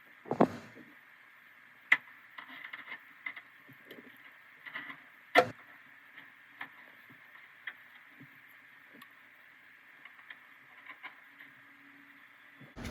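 Scattered clicks and knocks of parts and tools being handled while working on a car, with two louder thumps about half a second in and about five seconds in, over a faint steady hum.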